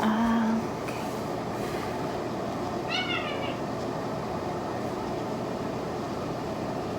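A short parrot chirp about three seconds in, made of quick bending high notes. At the very start there is a brief steady low note, the loudest sound here. A steady background hum runs underneath.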